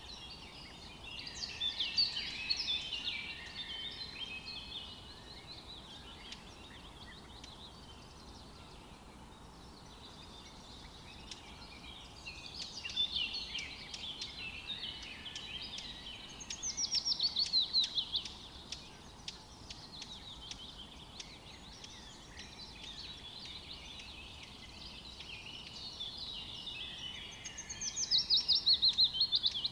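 Several songbirds singing in repeated phrases, some ending in fast series of descending notes, with the loudest songs about two seconds in, near the middle, and near the end. Under them is a faint steady rush of a river.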